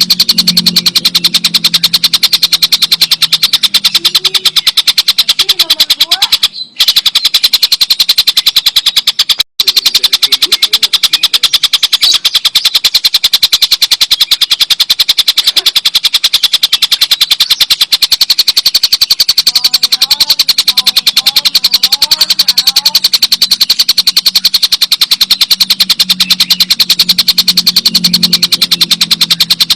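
Tengkek buto kingfisher giving its long, rapid cackling rattle, a fast even run of high notes, broken twice by a very short gap about a third of the way in.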